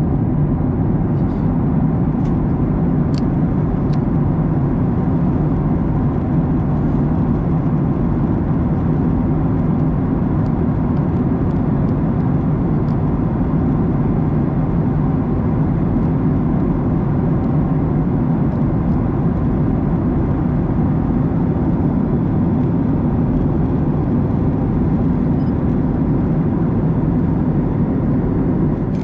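Steady low drone of a Boeing 737-900ER cabin in flight: airflow over the fuselage and the hum of its two CFM56-7B turbofan engines, with a few faint ticks in the first few seconds.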